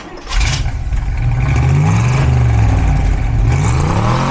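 Porsche Cayenne Turbo S twin-turbo V8 breathing through an Eisenmann aftermarket exhaust. It comes in loud with a burst about a third of a second in, then is revved, its pitch climbing and falling back twice.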